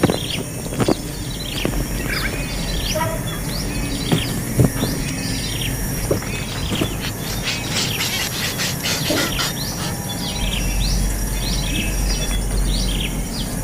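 Nestling birds begging for food: many short, high, upward-sliding chirps repeated, with a quick run of them about halfway through. A low rumble joins about ten seconds in.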